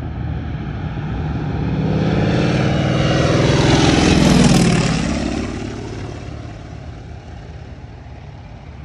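Vintage propeller plane flying a low pass overhead: its engine grows louder to a peak about four seconds in, drops in pitch as it goes by, then fades. It is a flyby so the ground can confirm that its landing gear is down.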